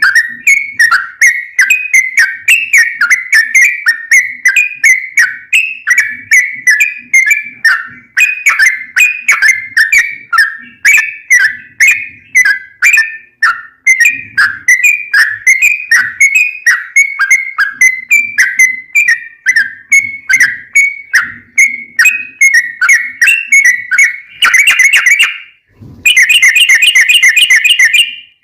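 Yellow-vented bulbul (trucukan) singing: a fast, loud run of short bubbling whistled notes, about three a second, breaking near the end into rapid continuous trills, the long 'ropel' phrases prized in this bird.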